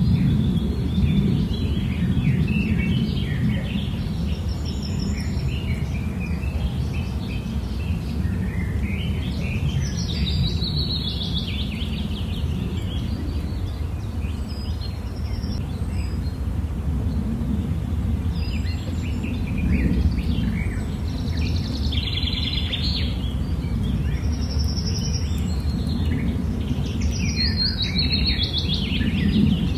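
Small birds chirping and singing in scattered clusters, busiest a third of the way in and through the second half, over a steady low rumble.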